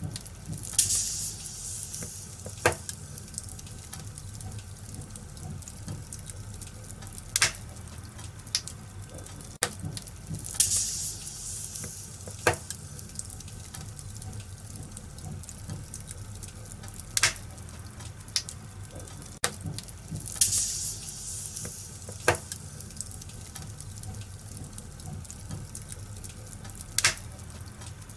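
Wood fire in a fireplace crackling, with sharp pops every second or two and a brief hissing flare-up about every ten seconds, over a steady low rumble of burning.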